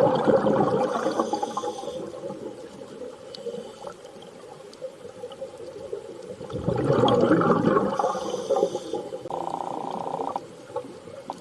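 Underwater soundscape: slow swells of rushing water noise, with long held, whale-like tonal calls drifting over them.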